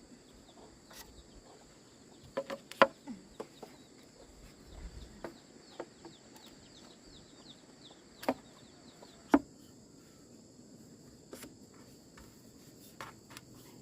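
Insects buzzing steadily in a high, even drone, over which come several sharp knocks or taps, the loudest about three and about nine seconds in.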